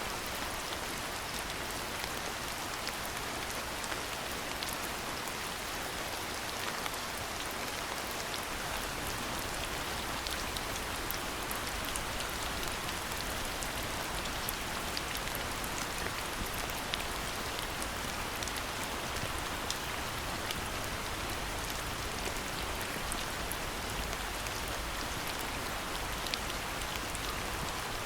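Steady rain falling, an even hiss with many small, separate drop ticks scattered through it.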